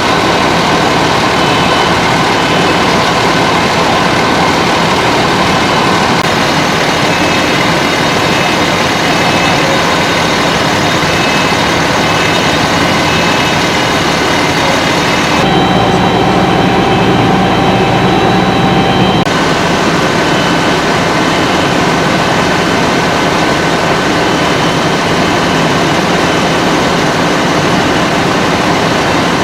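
Fire apparatus engines running steadily at the fireground, a loud even engine noise with a faint high whine. About halfway through, the sound shifts for a few seconds to a heavier, deeper engine note with a different steady tone, then returns to the first sound.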